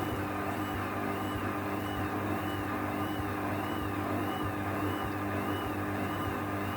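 Ocean 900 washing machine running, its motor humming steadily as the drum turns through the drain and distribution stage before spin. A faint high whine rises and falls evenly about one and a half times a second.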